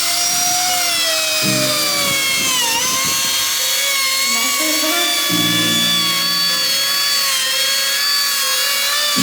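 Bosch PMR500 trim router running at speed: a high whine with many overtones. Its pitch sags briefly about three seconds in, as the bit takes load in the cut, then recovers and holds steady.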